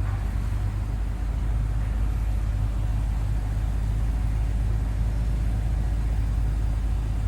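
BMW M5 (F10) idling, a steady low rumble heard from inside the car's cabin.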